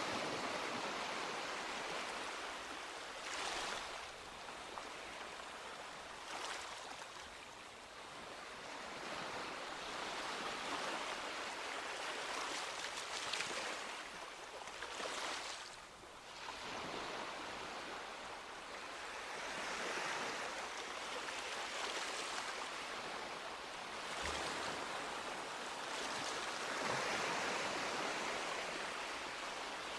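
Small sea waves breaking and washing on a beach, a steady wash of surf that swells every few seconds.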